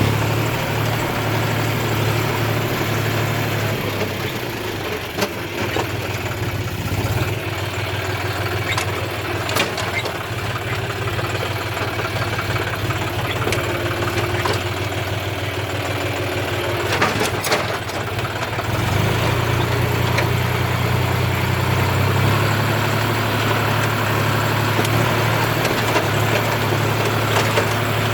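John Deere 5039D tractor's three-cylinder diesel engine running steadily as the tractor drives on, with a few sharp clanks. The engine note grows louder about two-thirds of the way through.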